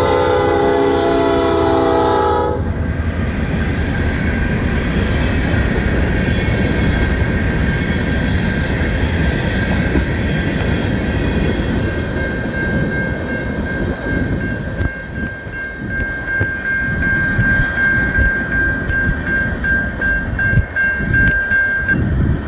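A Norfolk Southern train's horn sounds a chord for the first two seconds or so and cuts off. The train then rumbles past over the crossing with wheel clatter. A steady high tone grows clear for about the last ten seconds, then breaks up just before the end.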